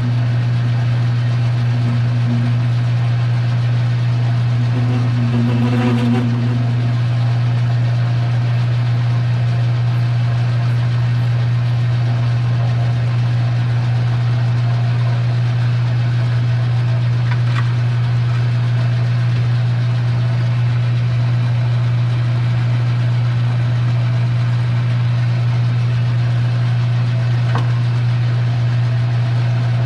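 Metal lathe's electric motor running at a steady hum, with a few faint clicks now and then.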